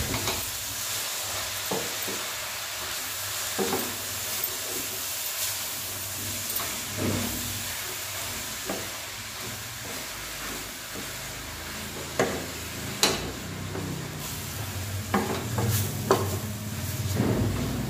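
Fenugreek leaves sizzling in oil in a steel pot while a spoon stirs them, with scattered scrapes and knocks of the spoon against the pot. A low hum comes in near the end.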